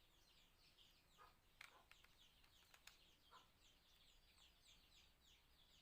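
Near silence, with faint high bird chirps repeating a few times a second and a few soft clicks.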